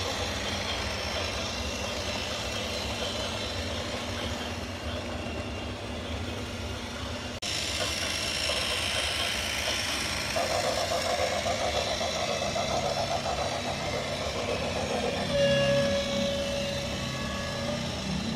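Radio-controlled backhoe loader running with a steady engine-like drone. The sound changes abruptly about seven seconds in, a higher whine joins from about ten seconds, and steady musical tones come in near the end.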